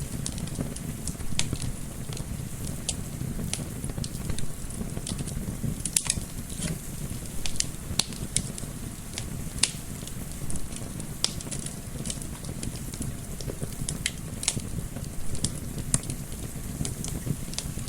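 Wood fire crackling, with irregular sharp pops and snaps, a few each second, over a steady low rumble of gentle wind.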